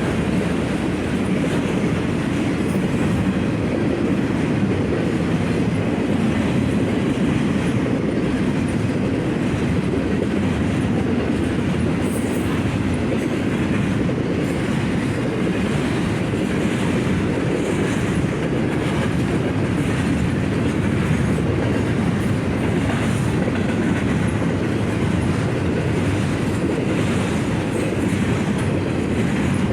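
Union Pacific automotive/intermodal freight train rolling past, a steady rumble of steel wheels on rail with faint irregular clicks.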